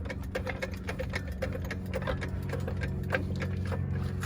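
Jack being pumped to drive a ball-joint fork tool up under the lower ball joint, giving a run of short mechanical clicks a few times a second over a steady low hum.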